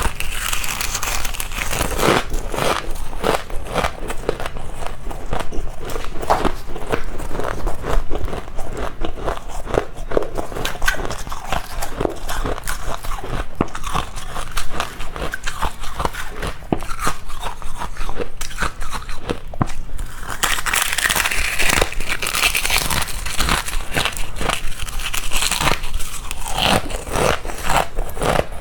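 Close-miked biting and chewing of freezer frost: steady crunching with many sharp crackles, turning denser and hissier for a few seconds about two-thirds of the way through.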